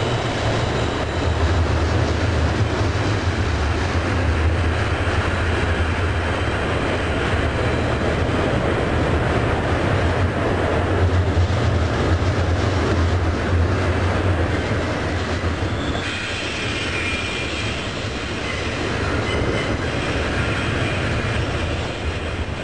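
Double-stack intermodal container freight cars rolling past, a steady rumble of wheels on rail. Thin high squeals from the wheels come in during the last several seconds.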